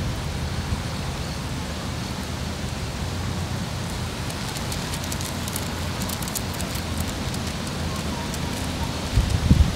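Wood fire crackling in a mesh fire pit: an even hiss with scattered sharp crackles, over a steady low rumble of wind on the microphone.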